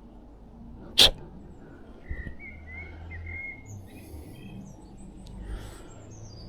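Small birds chirping outdoors, with one sharp, loud click or snap about a second in and a low rumble underneath.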